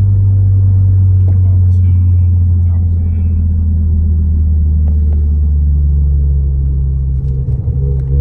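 Toyota E210 Corolla's 2.0-litre M20A-FKS four-cylinder engine, fitted with a Camry throttle body adapter, running under way with a steady low drone that wavers briefly near the end.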